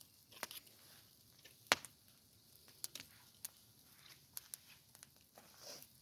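A few scattered sharp clicks and taps, the loudest about two seconds in.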